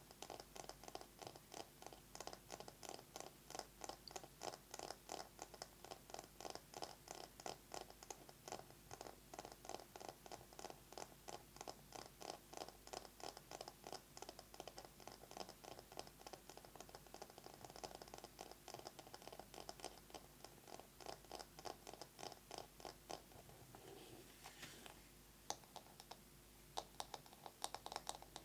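Fingernails tapping and scratching a bamboo massage brush in fast, even strokes, about three a second. The strokes soften briefly near the end, then return sharper and louder.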